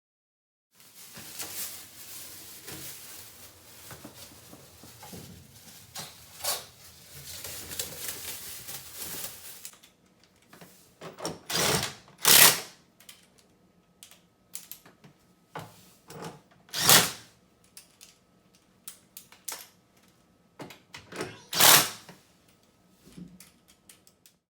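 Hard parts being handled: about nine seconds of continuous rattling and scraping with clicks, then scattered clicks and clacks, three of them loud and sharp.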